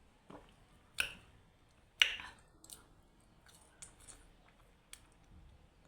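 Close-up mouth sounds of eating a lemon wedge: two sharp clicks about a second apart, then fainter smacks and clicks.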